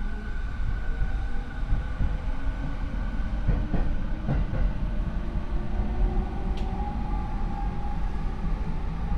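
Running sound inside a Rinkai Line 70-000 series train (Mitsubishi IGBT inverter, MT73 traction motors): the motor whine climbs slowly in pitch as the train gathers speed, over a steady high inverter tone and constant rumble, with a few rail-joint clicks in the middle. This car is known for unusually loud motor noise.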